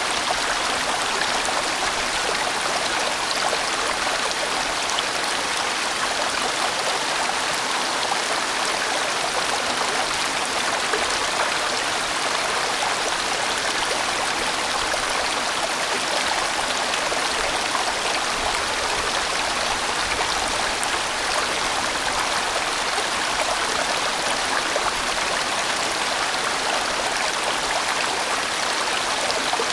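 A large mountain stream rushing over rocks: a steady, even rush of water with no pauses or changes.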